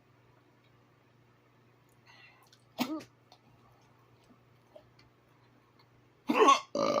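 A person's short throaty vocal sound about three seconds in while eating, then two louder, sharp bursts from the throat near the end, like a sneeze or cough, over a faint steady low hum.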